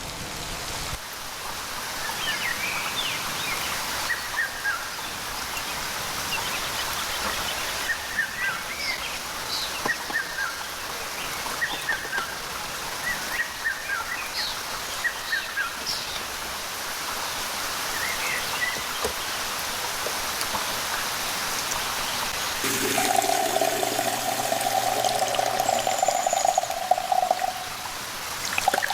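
Steady rain with water trickling and pouring, and many short bird chirps through the first two-thirds. Near the end a steady humming tone comes in for about five seconds over the rain.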